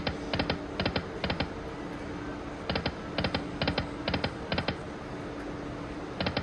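Video slot machine's reels stopping one after another, each reel marked by a short, quick triple click. Two spins come in turn, five stops each about half a second apart, with a steady low hum from the machine underneath.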